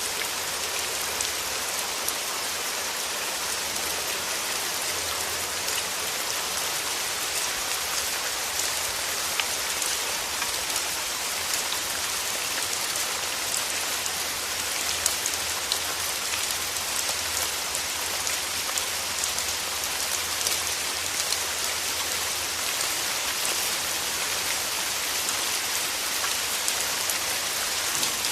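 Steady rain falling through trees, a dense even patter with many small drop ticks, strongest in the high range.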